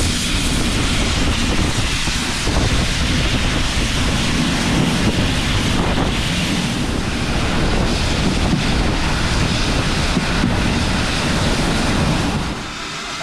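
Wind buffeting the microphone over the running noise of a moving steam train: a loud, steady rush that drops suddenly near the end.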